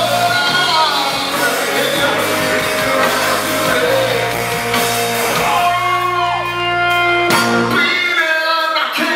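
Live rock band playing, with electric guitar and singing; the bass and low end drop out about eight seconds in.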